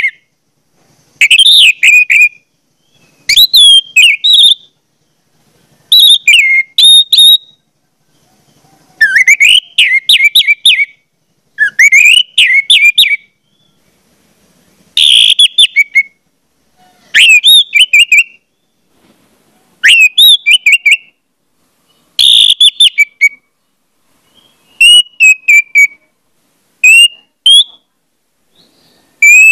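A bird singing short phrases of quick whistled notes, sweeping up and down in pitch, each phrase about a second long and repeated roughly every two seconds.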